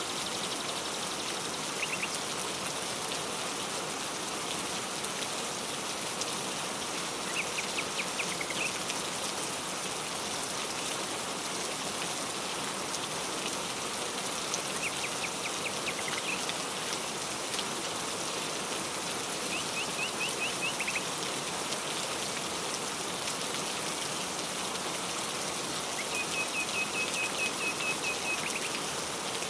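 Steady rain falling, with a bird calling over it five times in short series of rapid, evenly repeated high notes, the last series the longest.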